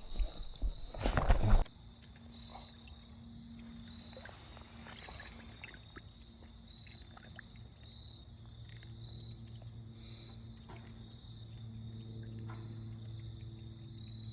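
Loud, irregular splashing and handling noise from a netted trout for about a second and a half, which cuts off suddenly. Quiet background music follows: sustained low chords that change every few seconds, over a faint pulsing high tone.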